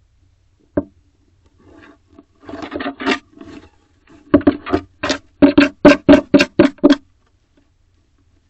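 Female barn owl scratching at the wooden wall of her nest box with her feet and/or beak: a knock, some scraping, then a quick run of sharp scrapes about four to five a second.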